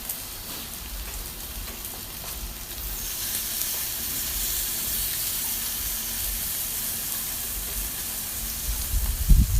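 Sliced pork belly sizzling on a tabletop grill pan: a steady hiss that grows louder about three seconds in.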